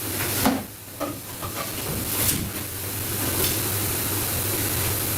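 Steady hissing noise over a low hum, broken by a few brief knocks in the first few seconds.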